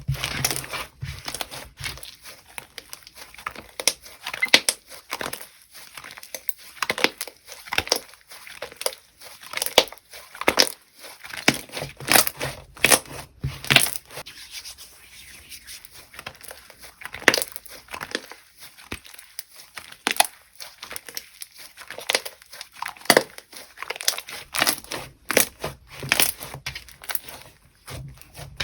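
Slime being squeezed and stretched by hand, giving irregular sticky pops and crackles.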